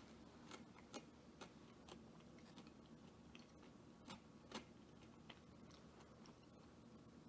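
Faint, irregular clicks and small crunches of a person chewing fried food quietly with the mouth close to the microphone, about a dozen unevenly spaced ticks over a near-silent background.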